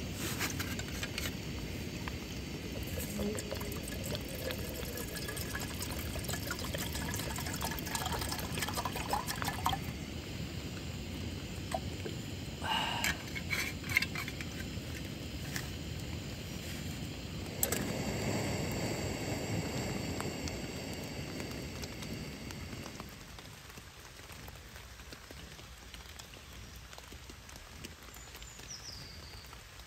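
Rain falling steadily on a tarp and wet foliage, easing off about three-quarters of the way through. A few short clicks and knocks come from a canteen being handled.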